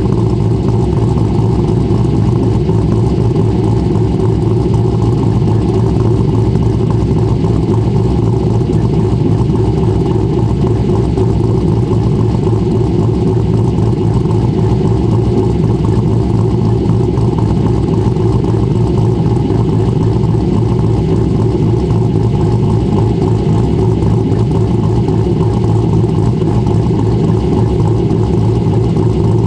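C6 Corvette V8 with a BTR Stage 3 camshaft, long-tube headers, X-pipe and dual exhaust, running steadily and loud with no clear change in pitch.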